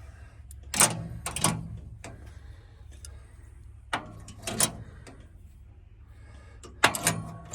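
Irregular sharp knocks and clatters of tools or parts being handled during tractor repair work: a few about a second in, two more around the middle, and a louder cluster near the end, over a low steady hum.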